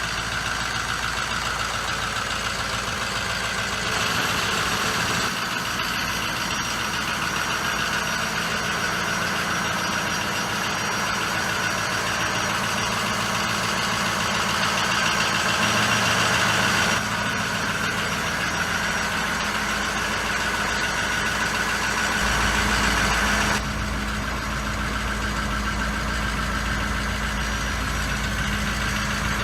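Ford 6.0L Powerstroke turbodiesel V8 idling steadily, its tone changing abruptly a few times.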